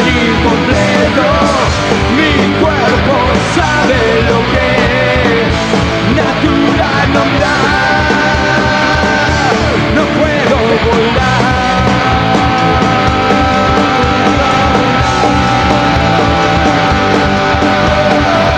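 Live punk rock band playing an instrumental passage, with distorted electric guitars, bass and drums; a lead line bends in pitch early on and settles into long held notes from about halfway.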